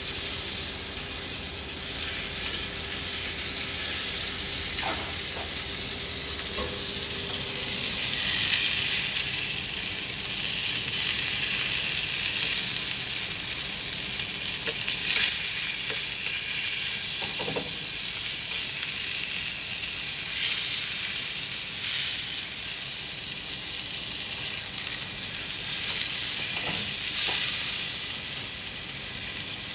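Wagyu beef cubes searing in hot oil in a frying pan, a steady sizzle that grows louder about eight seconds in. A few light clicks of metal tongs against the pan as the pieces are turned.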